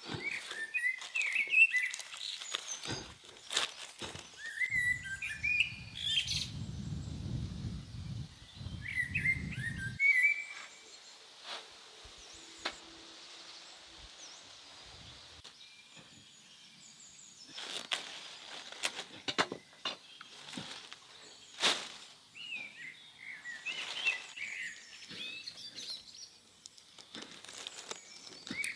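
Small birds chirping in short bursts of a few quick notes, several times over, with scattered sharp clicks and knocks and a low rumble for a few seconds near the start.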